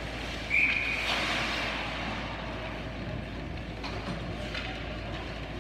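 A referee's whistle blows once, short and shrill, about half a second in, over the steady noise of an ice hockey rink. A few short knocks of sticks or puck follow later.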